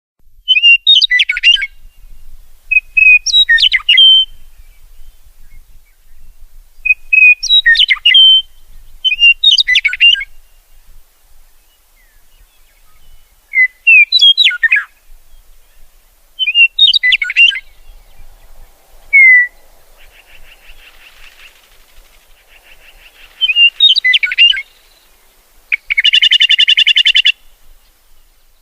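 A songbird singing short, complex warbling phrases, one every two to three seconds. Near the end comes a loud buzzy trill lasting about a second and a half.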